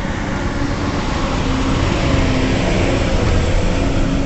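Motorcycle engine running steadily under a loud, even rush of road and wind noise, with traffic around.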